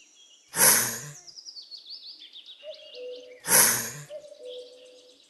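Monitor lizard hissing in two short bursts about three seconds apart, with small birds chirping in the background.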